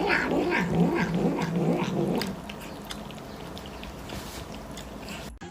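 A domestic cat vocalizing in a quick run of about six short, low calls over the first two seconds, then falling quieter.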